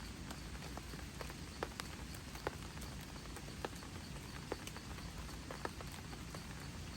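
Steady rain with heavy drops tapping irregularly, a loud tap every second or so among many fainter ones.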